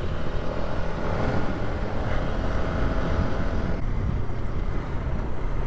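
Polaris ATV engine running steadily while the quad is ridden along, a constant hum with low rumble.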